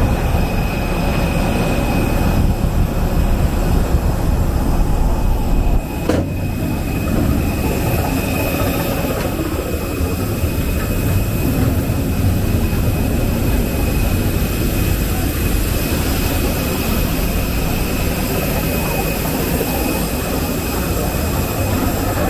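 Steady cabin noise of a parked airliner at the gate: a constant rush of air with high steady whines from the aircraft's air supply. A single click about six seconds in, after which it is slightly quieter.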